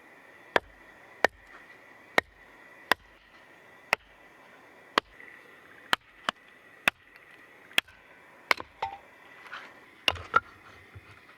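Firewood being split by hand: a series of sharp wooden strikes, roughly one a second at an uneven pace, some coming in quick pairs near the end.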